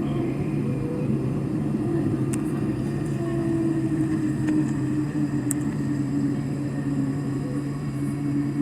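Jet airliner engines running with a steady drone heard inside the passenger cabin, two low hum tones held under an even rushing noise, with a couple of faint clicks.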